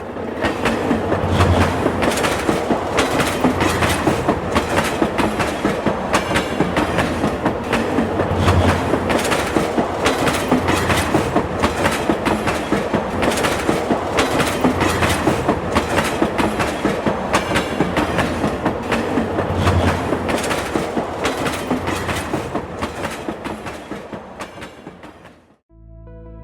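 Train wheels clicking steadily over rail joints in a clickety-clack rhythm of about two to three beats a second, fading away near the end.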